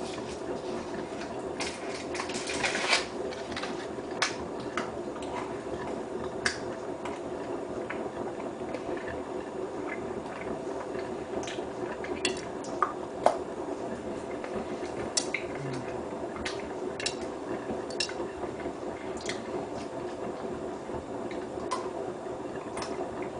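Hotpoint WT960 washing machine on its wool-cycle rinse: water sloshing and dripping in the drum over a steady motor hum, with scattered light clicks and splashes.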